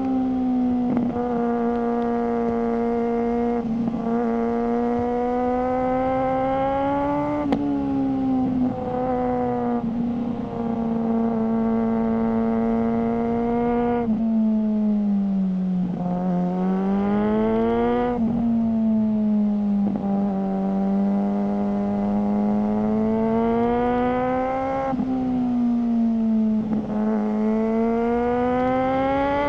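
Suzuki GSR600 inline-four motorcycle engine running through a GPR Ghost aftermarket exhaust. It holds a steady mid-range note, and several times the pitch drops sharply, then climbs back as the throttle comes on again.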